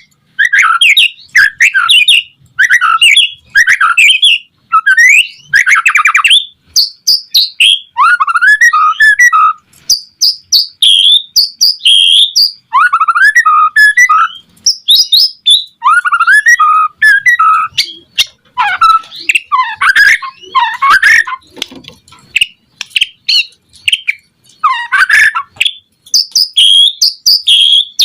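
White-rumped shama (murai batu) in full song: loud, rapid, varied phrases of whistles, trills and harsh chatter, strung together with only brief gaps.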